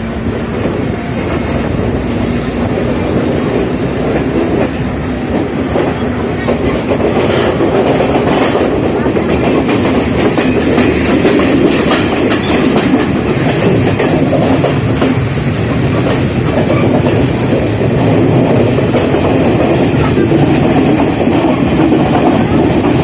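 Sri Lanka Railways train running past at close range, its wheels clacking over the rail joints amid a steady rumble. It grows louder as it goes by, with a run of sharp clacks about a third of the way in.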